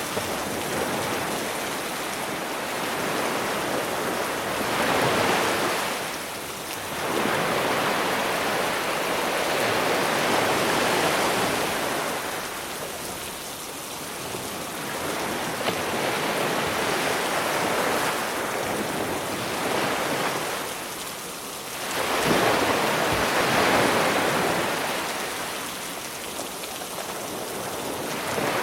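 Sea waves breaking and washing up the shore, swelling and easing several times, under a steady hiss of rain.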